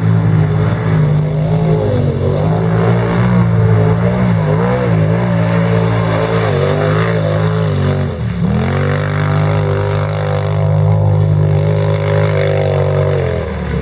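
Racing quad bike (ATV) engine running hard at high revs, its pitch wavering, dropping sharply about eight seconds in as the throttle comes off, then climbing back and holding steady.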